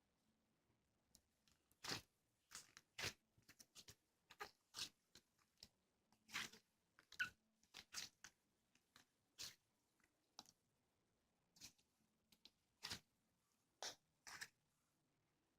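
Short crunching and clicking sounds, about twenty of them at irregular intervals.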